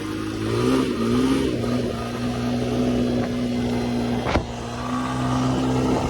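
Dirt bike engine running at a mostly steady pitch, with a short rise and fall in revs about a second in, and a single sharp knock about four seconds in.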